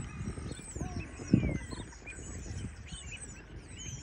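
A crowd of pond birds calling over one another in many short, high chirps, with scattered low knocks and one louder thump about a third of the way in.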